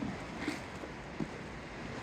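Steady outdoor wind noise buffeting the microphone, with a few soft low knocks and one brief sharper sound about half a second in.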